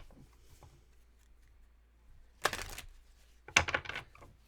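Tarot cards being handled or shuffled: two short bursts of card rustling a second apart, in the second half.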